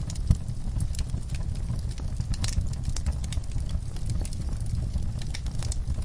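Wood fire in a fireplace crackling, with irregular sharp pops over a steady low rumble; the strongest pop comes just after the start.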